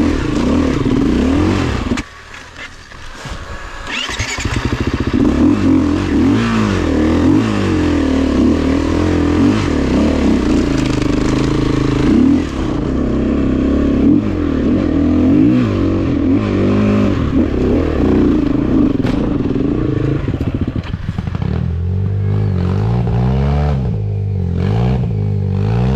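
Dirt bike engine revving up and down as it is ridden, the pitch rising and falling with the throttle. About two seconds in it drops off sharply to a much lower level, then builds back up over the next few seconds.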